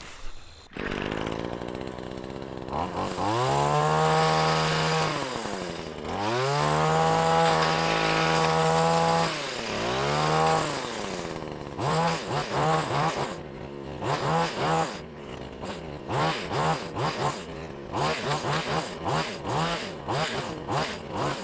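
Engine-driven hedge trimmer revving up to full speed and dropping back to idle three times, then run in many quick short bursts of throttle.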